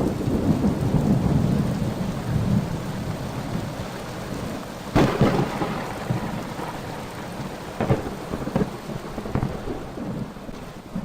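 Thunderstorm: steady rain with rolling thunder, a sharp thunderclap about five seconds in and smaller cracks later, fading out near the end.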